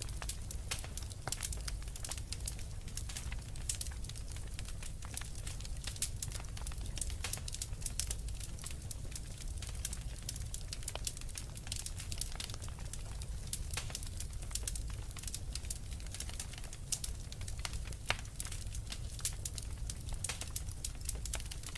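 Wood fire burning in a fireplace, crackling: a dense, irregular stream of small sharp pops over a steady low rumble.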